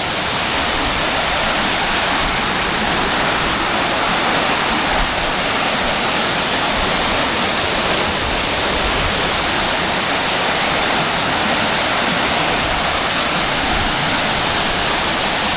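Waterfall: water falling and rushing over rocks in a steady, loud, even roar of noise, with its flow somewhat reduced for lack of rain.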